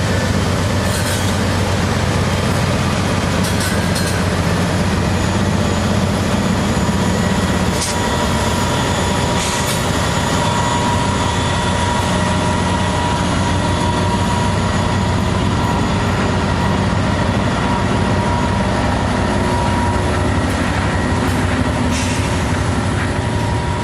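A freight train's cars rolling steadily past, steel wheels on the rail, with a few sharp clicks. A thin, steady wheel squeal comes in from about halfway through.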